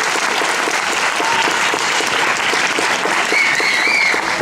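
Steady rain falling, a dense even patter of many small drops, with a brief high chirp near the end.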